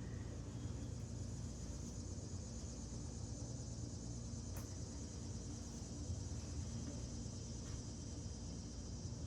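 Steady, high-pitched chorus of insects over a low, constant hum, with a couple of faint clicks.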